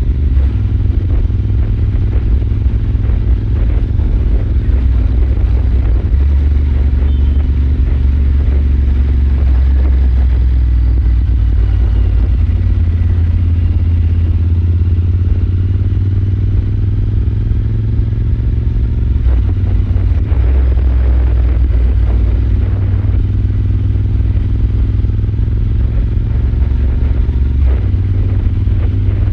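Royal Enfield Super Meteor 650's parallel-twin engine running at a steady cruise: a low rumble whose note shifts slightly a few times.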